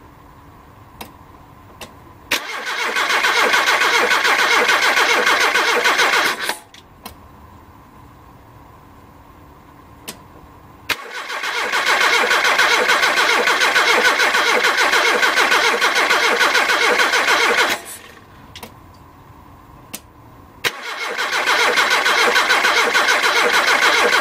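Car starter motor cranking an engine that does not fire, in three long bursts of about four to seven seconds each with pauses between. The engine is being cranked only to pump fresh fuel up to a jar, with the carburettor disconnected, so it cannot start.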